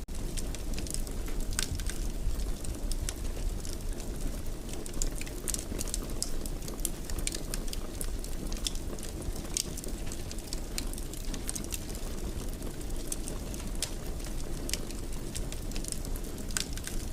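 Wood fire crackling in a fireplace: a steady low rush of flames under frequent, irregular pops and snaps.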